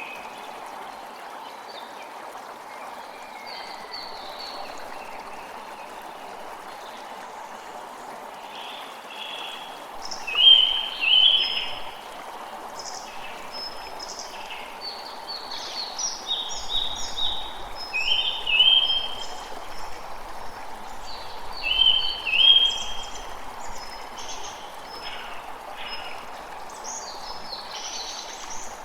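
A creek running steadily, with songbirds calling over it in short repeated phrases, loudest around ten, eighteen and twenty-two seconds in.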